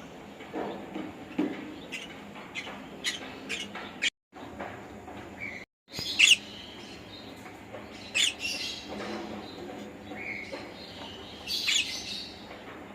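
Pet conure chirping and squawking in short, sharp calls: a run of quick chirps, then louder single calls, the loudest about halfway through. The audio drops out twice, briefly.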